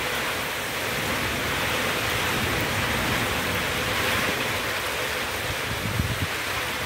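Heavy rain pouring down in a strong wind: a steady rushing hiss, with gusts rumbling on the microphone.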